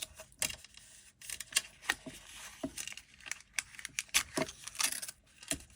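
Washi tape being pulled off its roll and handled: a string of short crinkles, rips and light taps.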